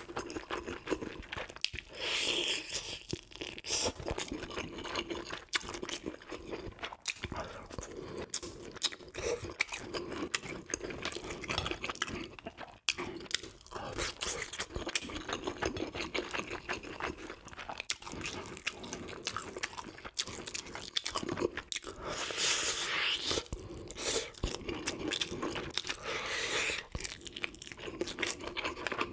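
Close-miked chewing and crunching of grilled yellow corvina (gulbi): crisp skin and small fish bones crackling between the teeth in a steady run of bites.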